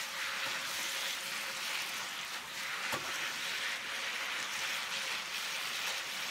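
Cabbage and ground pork in a spicy miso sauce sizzling steadily in a frying pan as they are stirred with wooden chopsticks, with one light knock about three seconds in.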